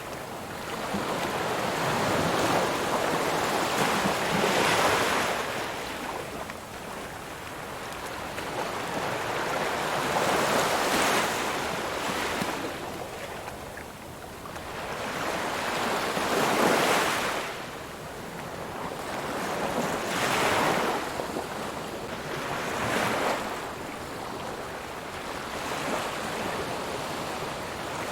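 Ocean waves breaking and washing on a shore, the surf noise swelling and falling in surges every few seconds, with a rush of wind.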